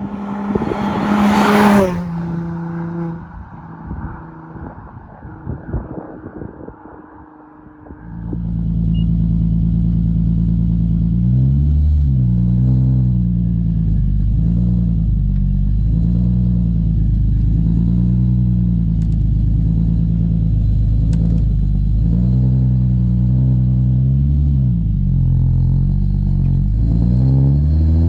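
Nissan 350Z's 3.5-litre V6 through a decatted Invidia Gemini straight-through exhaust. It revs sharply at the start, runs quieter for a few seconds, and from about eight seconds in runs loud and steady with a deep, wavering note. The pitch climbs again at the end.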